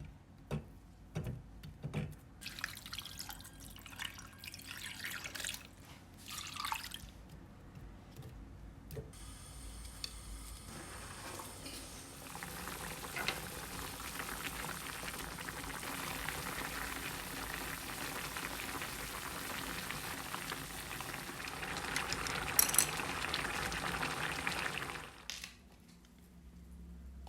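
Light knocks and clinks for several seconds, then a kitchen tap running steadily for about thirteen seconds before being shut off near the end.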